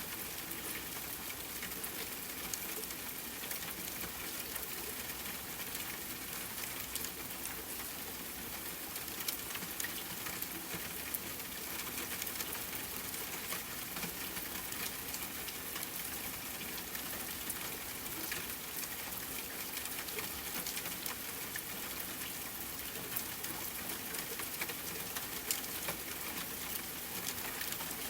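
Steady rain falling, with many small sharp crackles and drips scattered through it, the mix of rain and a crackling campfire.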